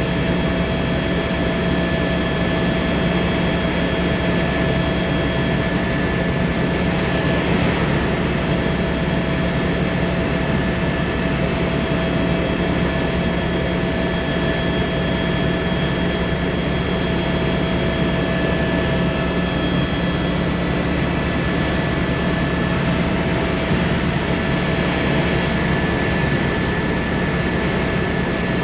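Helicopter cabin noise: the steady drone of the turbine engine and rotor, with several constant whining tones over it.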